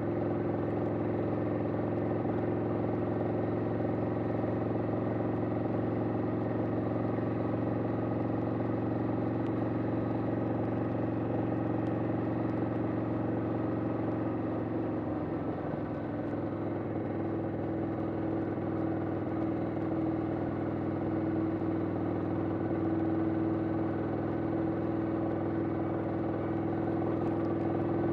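1991 Harley-Davidson XL883 Sportster's air-cooled 883 cc V-twin engine running steadily at highway cruising speed, with a brief dip and wavering about halfway through before it settles again.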